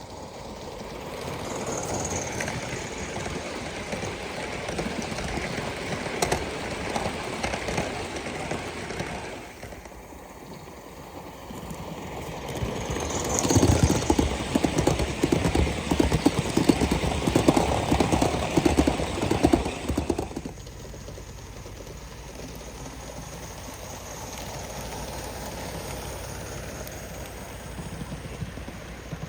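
Gauge 1 live-steam model locomotive running on the track, with rapid exhaust chuffs and wheel clatter. It grows louder twice, is loudest for several seconds in the middle, then drops away suddenly about two-thirds of the way through.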